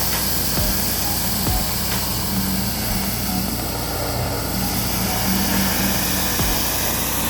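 Gas-engine pressure washer running steadily, with a constant hiss of water spraying.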